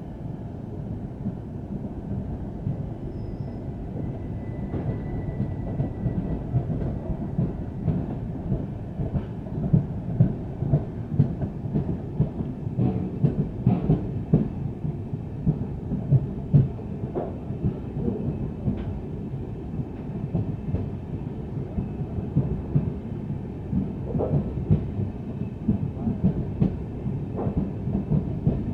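Passenger train rolling along the track: a steady rumble of wheels on rail, with irregular clacks as the wheels pass over rail joints, growing busier after the first several seconds.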